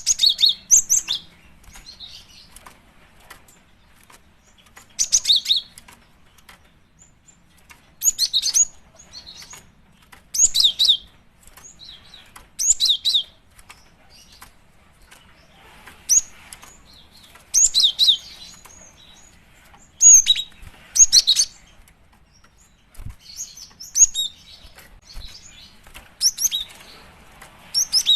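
Female cinereous tit (gelatik batu) calling in short bursts of high, sweeping chirps, one burst every couple of seconds. This is the female's call to a male, used as a lure.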